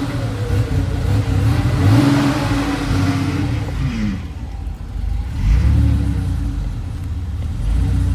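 Porsche 964's air-cooled flat-six engine being revved, climbing and falling a couple of times. The owner says it sounds a little rough and hears a clicking in it.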